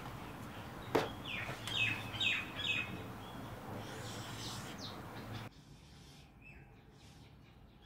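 Bird chirping: four short, downward-sliding chirps in quick succession, over a steady hiss of background ambience, with a sharp click just before them. The hiss drops away to faint room tone about five and a half seconds in.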